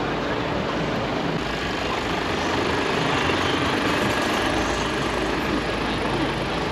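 Heavy diesel truck engine running steadily, a deep hum under an even wash of noise.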